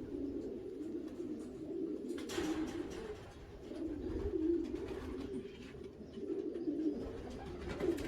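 Racing pigeons cooing in a loft, a continuous low wavering chorus of coos, with a brief rustle about two seconds in.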